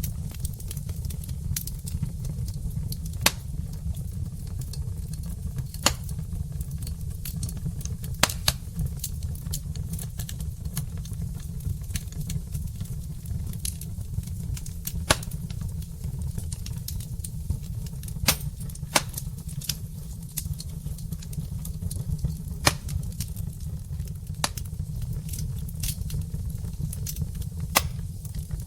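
Logs burning in a fireplace: a wood fire crackling with scattered sharp pops, several of them louder, over a steady low rumble.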